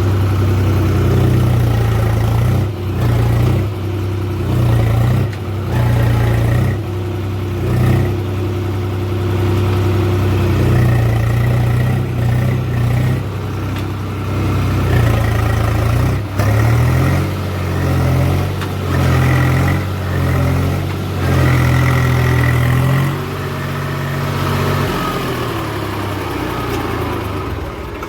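Tractor's diesel engine running under changing load while levelling soil, its note stepping up and down every second or two.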